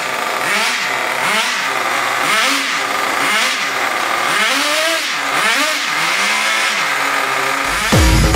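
Exceed RC monster truck's motor revving up and dropping back over and over, about once a second. Loud electronic music with a heavy beat cuts in near the end.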